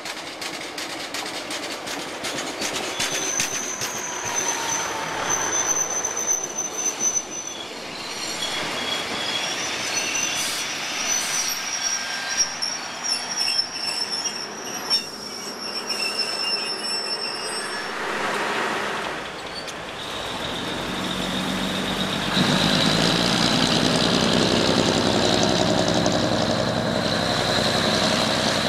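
Diesel multiple-unit train running into a station, with a high-pitched squeal as it slows and some clicking from the rails. After a cut about two-thirds of the way in, a louder diesel train engine running steadily with a high whine.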